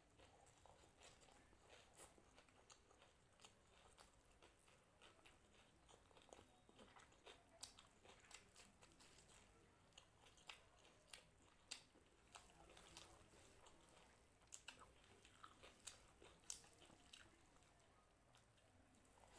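A person chewing crunchy food close to the microphone: faint, frequent sharp crunches and mouth clicks at an uneven pace.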